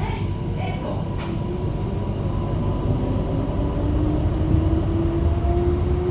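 Flexity tram accelerating, heard from inside the car: the traction motors' whine rises slowly and steadily in pitch over a low running rumble.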